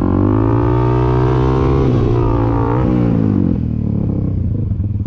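Dirt bike engine held at high revs, its pitch wavering, then dropping back to a low, pulsing idle about three and a half seconds in.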